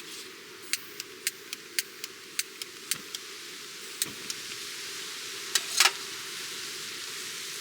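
Wood fire crackling: sharp, irregular pops and snaps over a steady hiss, with a quick burst of pops a little over halfway through.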